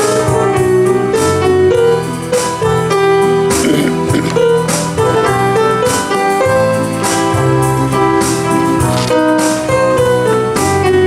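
Keyboard music with held chords over a bass line: the instrumental introduction to a song, before the vocal comes in.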